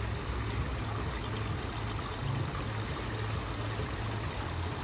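Steady rain falling, an even rushing patter.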